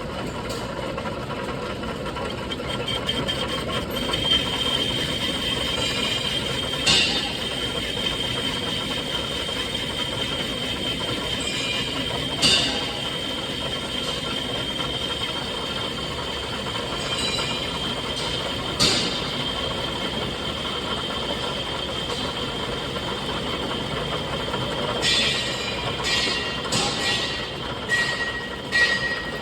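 Industrial machine running steadily with a high whine, a sharp metallic clank about every six seconds, then a quicker run of knocks near the end.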